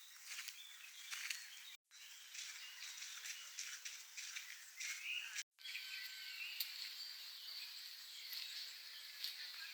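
Faint outdoor ambience with scattered bird chirps, broken twice by a split-second drop to silence where the sound is cut.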